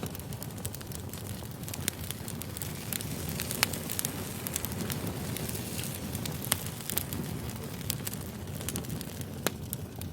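Wood fire crackling, a steady hiss with frequent sharp, irregular pops and snaps.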